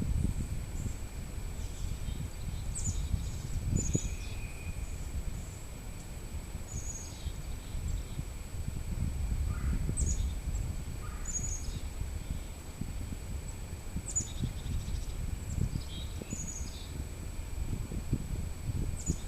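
Small birds chirping in short, high phrases that repeat every couple of seconds, over a continuous low rumble and a thin, steady high whine.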